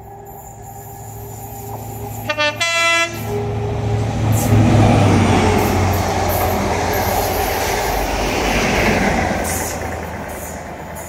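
Diesel train sounding its horn, a short toot then a longer blast about two and a half seconds in, then passing close by with a steady low engine drone and rail noise that builds, peaks and fades near the end.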